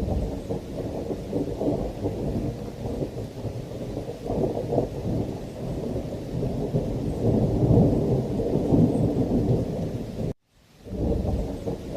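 Thunderstorm: deep rolling thunder over steady rain, swelling louder about two-thirds of the way through. Near the end the sound cuts out completely for a split second, then fades back in.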